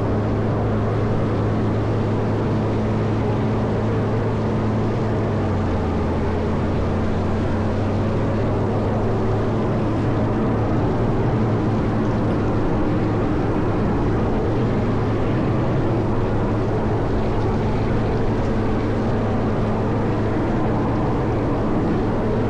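Caterpillar 140M motor grader's diesel engine running steadily under load while plowing snow. Its pitch sags about five seconds in and recovers a few seconds later.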